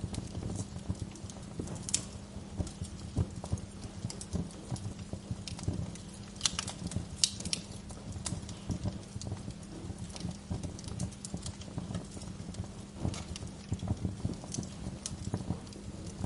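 Wood fire crackling, with irregular pops and snaps over a steady low rumble. A few sharper, louder pops come about halfway through.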